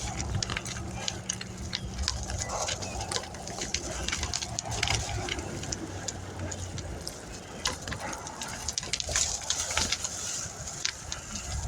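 Outdoor sound of a bicycle ride along a street: a low motor-vehicle engine hum for about the first half, with scattered clicks and rattles and a steady hiss throughout.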